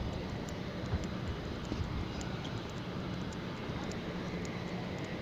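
Steady low outdoor background rumble with a faint hum and a few faint ticks.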